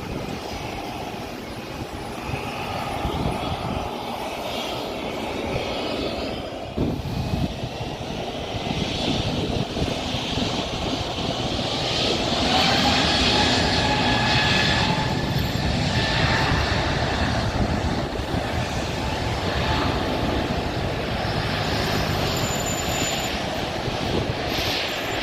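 Jet airliner engines running as an aircraft moves past: a steady rush of engine noise with whining tones that slide in pitch, growing loudest about halfway through.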